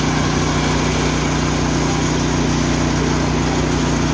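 Richi KD 350 mini rice and corn milling machine running steadily, its drive motor and mill giving an even, unchanging hum.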